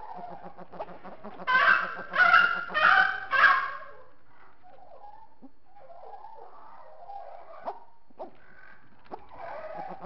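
Birds calling: four loud, harsh, honking calls in quick succession about a second and a half in, then quieter scattered chirps and a few sharp clicks.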